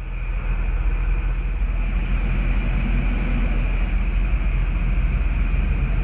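Grain semi truck's diesel engine running, a steady low drone with a faint constant high whine over it. It swells up quickly in the first half second and then holds even.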